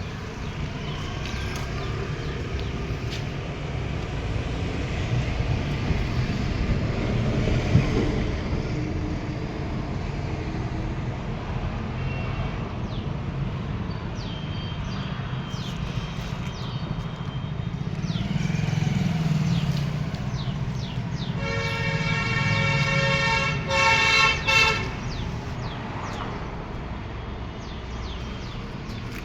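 Low motor-vehicle rumble with a car horn sounding about two-thirds of the way through: one long blast of about two seconds, then two short toots.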